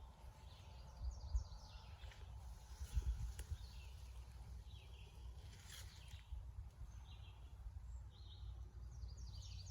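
Faint songbird chirps, short high calls repeated several times, over a quiet low outdoor background with a few soft low thumps in the first few seconds.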